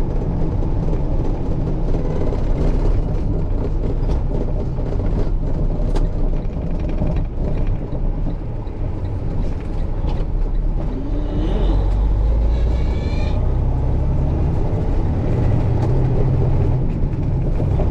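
Heavy truck's engine and road noise heard from inside the cab, a steady low rumble. About twelve seconds in the rumble grows heavier, with a brief rising tone.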